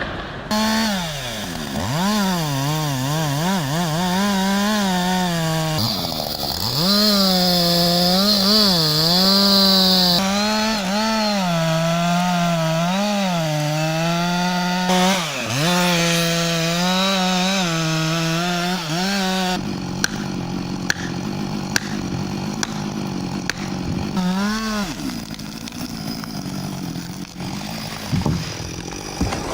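Husqvarna 562 XP two-stroke chainsaw running at high revs and cutting wood, its engine note repeatedly dipping under load and climbing back. In the last third the engine note mostly drops away, leaving a rougher noise with sharp cracks.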